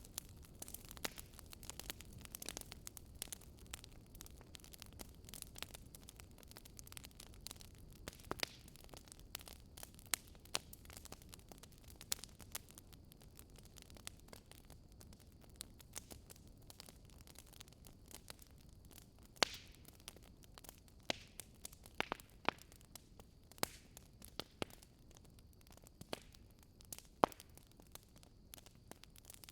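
Fireplace fire crackling, with irregular sharp pops and snaps over a faint steady hiss.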